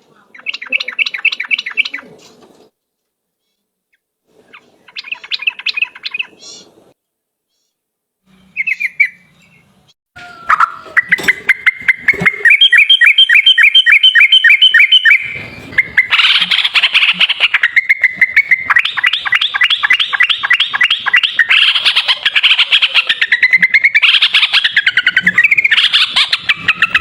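Yellow-vented bulbul (trucuk) singing its fast 'ropel' chatter. Two short bursts of rapid notes come first with silent gaps between them; then, about ten seconds in, the song runs on loud and unbroken as a long run of quick repeated notes.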